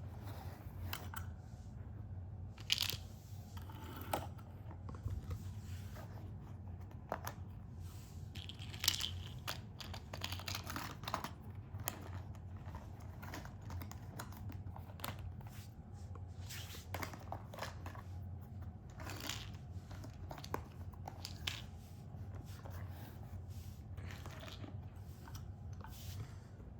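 Irregular crinkling, tearing and sharp clicks of packaging and hard plastic being handled, over a steady low hum.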